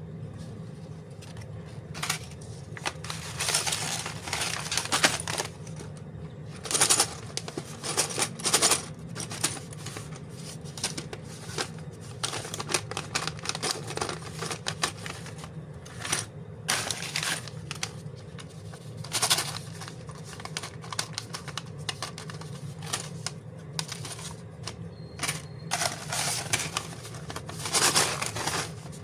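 Plastic parts bags and paper instructions being handled: irregular crinkling and rustling with small clicks, over a steady low hum.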